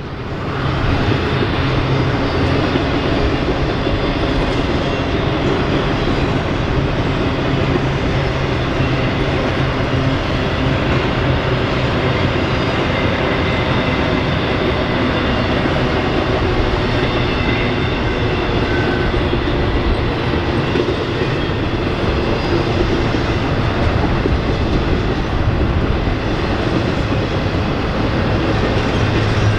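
A Norfolk Southern freight train's cars rolling past on the rails: a steady, loud rolling noise of wheels on track that comes up to full level in the first second.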